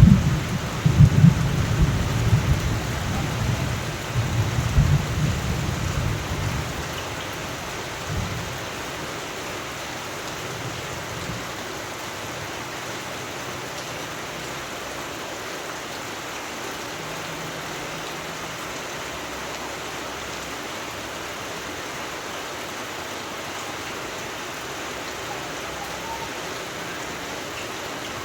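Steady rain with thunder rumbling in several swells over the first six seconds, then dying away, leaving the rain alone.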